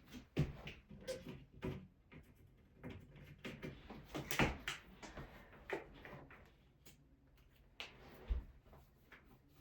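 Scattered light knocks, taps and scuffs of tools and materials being handled on a floor, irregular, with quieter rustling between them.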